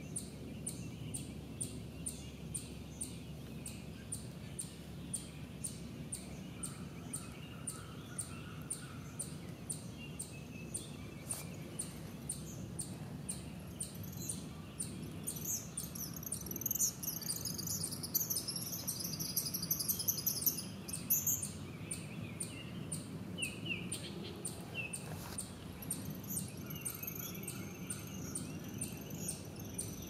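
Birds singing: a high chirp repeating about twice a second throughout, joined about halfway in by a burst of busier, high twittering song that stops some six seconds later, over a low steady hum.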